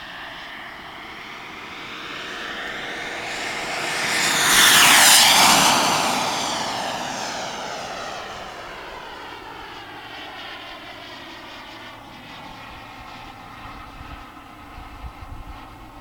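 Radio-controlled model jet with a Jet-Italia Kayman 190 turbine flying past. The turbine's rushing noise builds to its loudest about five seconds in, then fades as the jet flies away.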